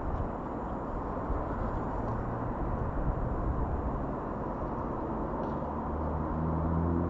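Steady outdoor background rumble. Near the end a low engine hum grows louder, typical of a passing vehicle.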